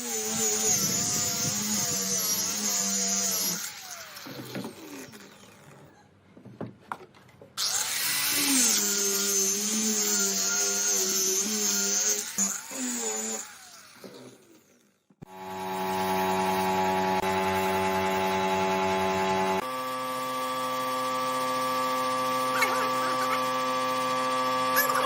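Electric power tools working wood: a motor whine that spins up and wavers under load in two spells with a pause between, then, about halfway through, a different machine starts and runs with a steady hum.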